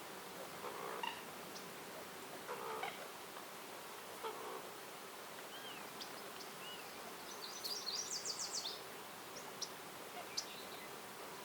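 Wild birds calling over a steady outdoor hiss: a few short, low warbling calls in the first few seconds, a quick high trill a little past halfway, then a few sharp, high chirps.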